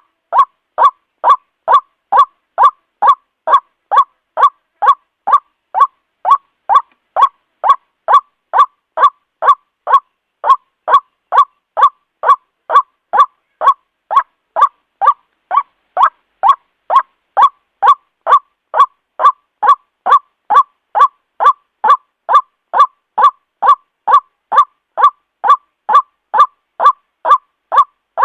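White-breasted waterhen calling: a steady, monotonous series of short ruak notes repeated about twice a second, evenly spaced and without a break.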